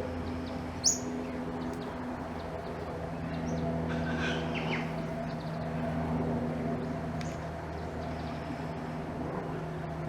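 Birds calling: one sharp, upward-sweeping chirp about a second in, then a few fainter short calls around the middle, over a steady low hum.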